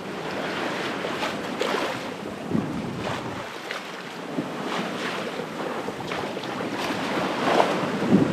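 Sea water washing and splashing along a sailboat's hull under way, with wind buffeting the microphone.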